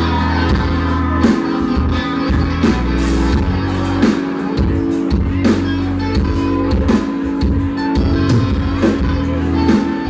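Live country band playing an instrumental passage, electric guitar over bass and a steady drumbeat, heard through an audience recording.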